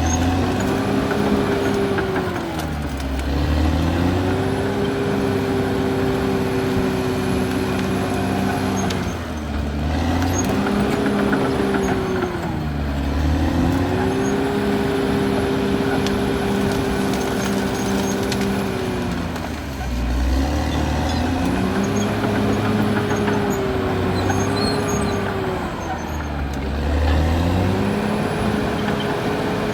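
Caterpillar D6R XL bulldozer's diesel engine working hard, its revs sagging and climbing back about five or six times as the machine works, with a steady hiss over the engine note.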